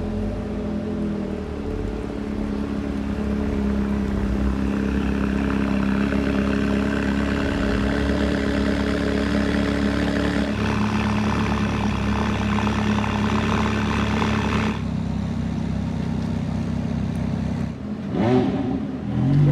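A car engine running steadily close by and slowly getting louder. About halfway through a hiss joins it and then cuts off sharply a few seconds later. Near the end comes a short rising rev.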